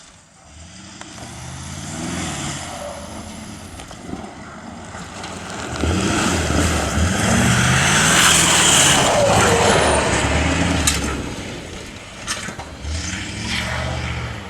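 Rally-raid car passing by at racing speed, its engine note climbing and dropping with each gear change. The engine and tyre noise grow loudest about eight to nine seconds in and then fade. Near the end the engine note climbs once more as it pulls away.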